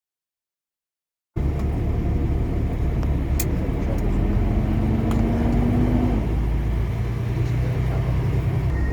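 Semi truck's diesel engine running, a steady low rumble that starts abruptly about a second and a half in. A tone in it rises slowly for about two seconds near the middle, with a few faint clicks.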